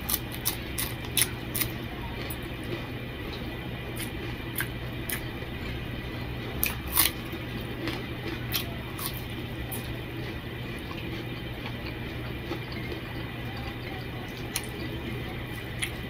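Close-up eating sounds of a person chewing rice and curry eaten by hand: wet, squishy chewing and lip smacks, with scattered sharp clicks, most of them in the first couple of seconds. A ceiling fan hums steadily underneath.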